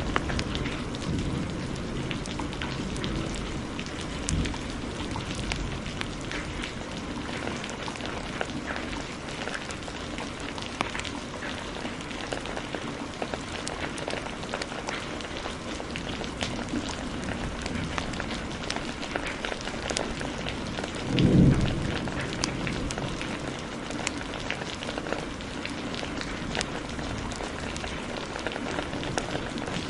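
Steady heavy rain with many small sharp ticks and crackles scattered through it, and one short, deep thunder rumble about two-thirds of the way in, the loudest moment.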